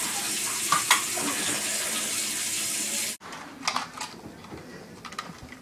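Bathroom sink faucet running steadily into the basin. The water sound cuts off abruptly about three seconds in, and a few soft knocks follow.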